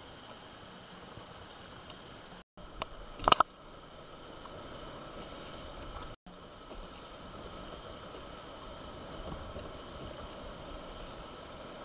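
Sea water moving and splashing around a kayak, with a cluster of sharp knocks about three seconds in. The sound cuts out briefly twice.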